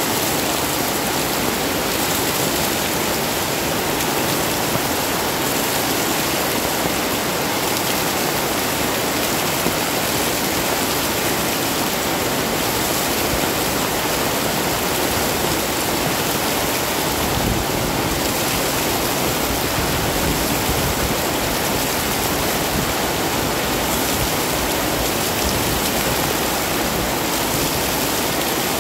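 Heavy rain falling steadily, a dense even hiss. A low rumble joins in about two-thirds of the way through.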